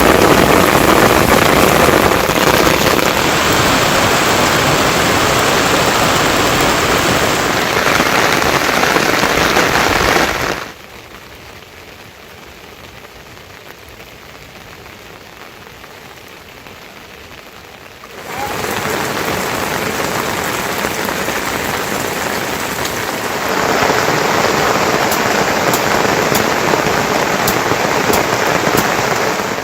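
Heavy monsoon rain pouring down as a dense, steady hiss. About a third of the way in it drops suddenly to a much quieter rain for several seconds, then comes back loud.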